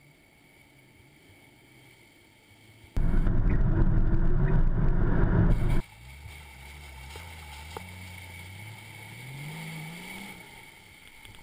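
Off-road 4x4 driving through deep mud. About three seconds in, a very loud rush of noise lasts about three seconds and cuts off abruptly. Then the engine's note climbs steadily in pitch as the vehicle pulls away.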